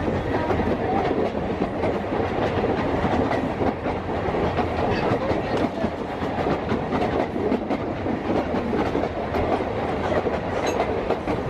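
Narrow-gauge train running along the track, heard from an open-sided carriage: a steady rumble with the clickety-clack and rattle of wheels over the rail joints.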